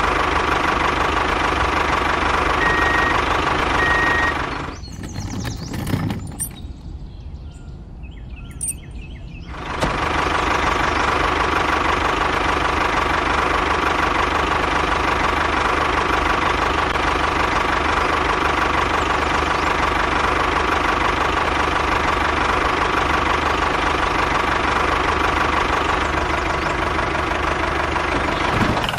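Small engine running steadily. About five seconds in the sound drops away for roughly four seconds, then runs again at the same steady pitch.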